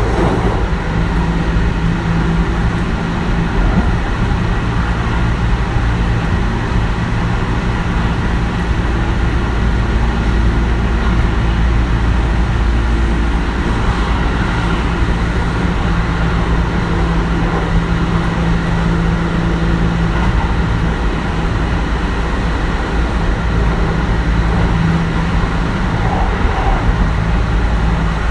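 Kintetsu 1420 series electric train running steadily at speed, heard inside the car: a continuous low rumble of wheels on rail with a level hum from the Mitsubishi GTO-VVVF traction equipment.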